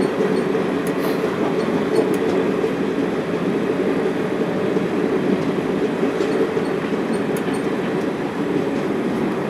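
Passenger train coach running at speed, heard from inside: a steady noise of wheels on the rails.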